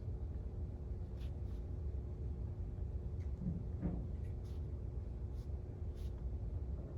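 Steady low room rumble with a faint hum, and a few faint short scratching sounds of desk work scattered through, such as a pen on paper.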